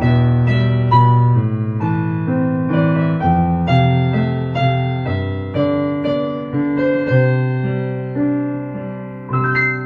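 Slow, calm piano music: single notes and chords struck one after another over a held bass, ending on a last chord near the end that rings on.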